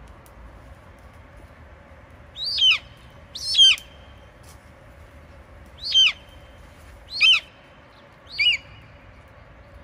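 A bird calling five times at irregular intervals, each call a short, loud note falling steeply in pitch.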